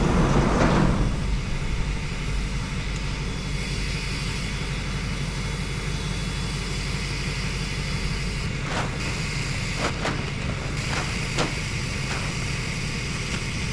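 A vehicle running steadily on the move, an even engine-and-road drone, with a few light knocks in the second half.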